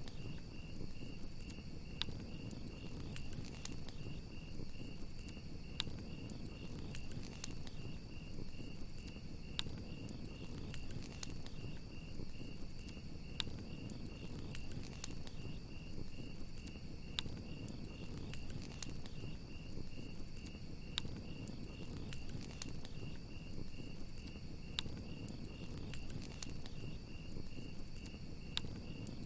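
Crickets chirping in a steady pulsing trill over a crackling campfire, with sharp pops and snaps of burning wood scattered throughout and a low steady rush of the flames beneath.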